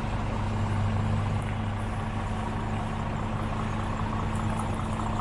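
Scania R490 truck's 13-litre six-cylinder diesel engine idling steadily with a constant low hum.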